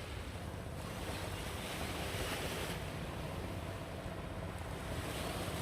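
Sea surf washing steadily on the shore, with wind on the microphone; the wash grows a little louder about two seconds in.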